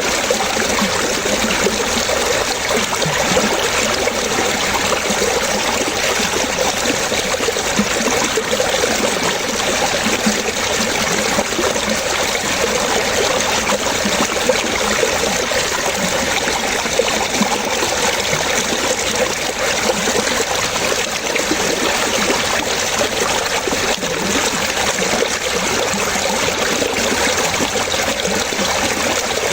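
Water trickling and splashing steadily, like a small stream running over stones.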